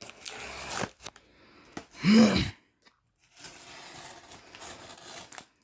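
A cardboard shipping box being cut and torn open: tape slit and cardboard scraping and tearing in uneven stretches. A short vocal sound from the person about two seconds in is the loudest moment.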